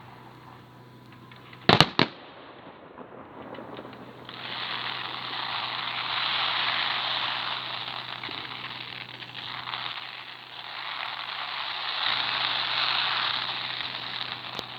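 Fireworks: a sharp double bang of a shell bursting about two seconds in, then from about four seconds a long continuous crackle that swells and fades.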